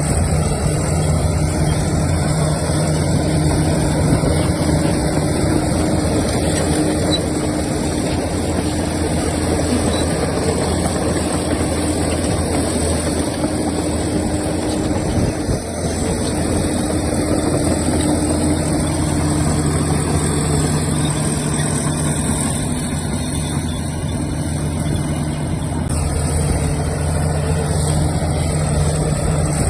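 Diesel engine of heavy earthmoving machinery running steadily; its note fades about halfway through and picks up again a few seconds later.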